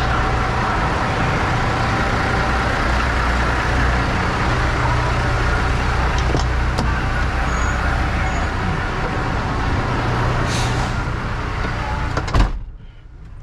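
Semi truck's diesel engine and road noise heard while driving, a steady low drone. It cuts off suddenly near the end with a short thump, leaving a much quieter background.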